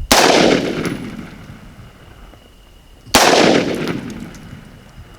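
Two shotgun blasts about three seconds apart, each sharp report followed by a long fading echo.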